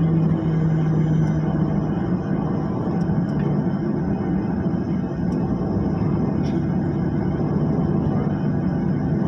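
Steady rumble of an aircraft's engines and airflow heard inside the passenger cabin in flight, with a low engine hum that fades out about two seconds in.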